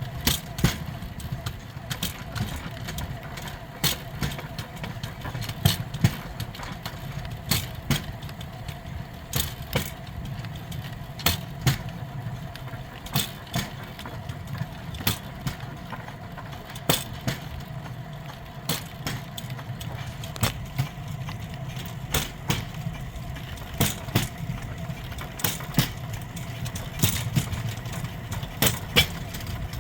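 Rail bike's steel wheels rolling along old jointed track: a steady rumble with sharp clacks in pairs about every two seconds as the wheels cross the rail joints.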